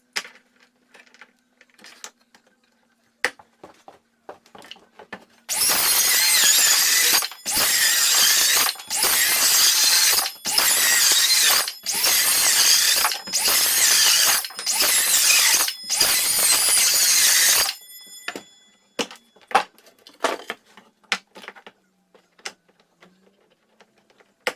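Hitachi C18DGL 18-volt cordless circular saw cutting through wood for about twelve seconds, starting about five seconds in, with brief dropouts every second or so. Near the end of the cut the blade spins down with a fading ring. Scattered clicks and knocks of handling come before and after.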